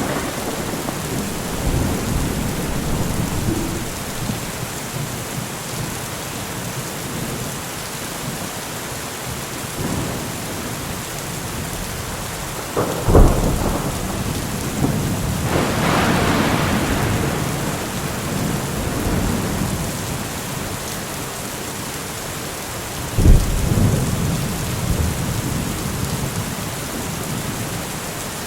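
Steady heavy rain during a thunderstorm. Two sharp thunder claps sound about 13 and 23 seconds in, and a rolling rumble swells and fades around 16 seconds in.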